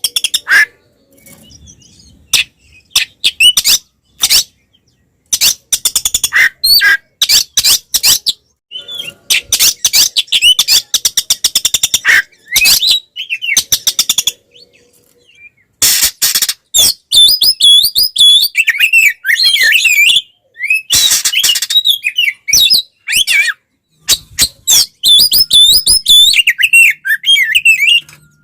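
Oriental magpie-robin (kacer) singing in agitated fighting mode: stop-start bursts of rapid, harsh clicking chatter, with warbling whistled phrases joining in over the second half.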